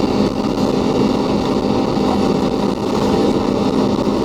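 Cabin noise of an Ilyushin Il-96-300 during takeoff: its four PS-90A turbofans run at high thrust as a loud, steady rush with an even low hum underneath.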